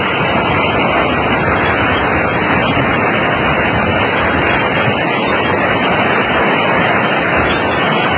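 Flash floodwater rushing in a torrent: a loud, steady rushing noise.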